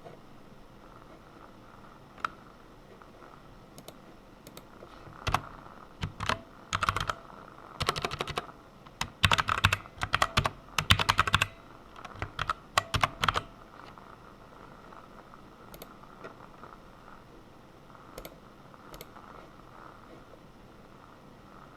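Typing on a computer keyboard: a few scattered keystrokes, then quick runs of key presses for several seconds in the middle, easing back to occasional single keys near the end.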